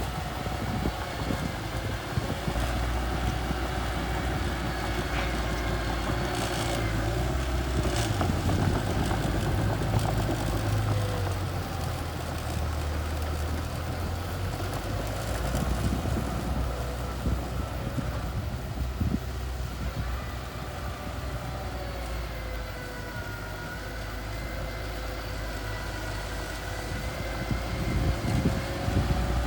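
Mini bulldozer's engine running steadily, its pitch drifting up and down a little, with one sharp click about eight seconds in.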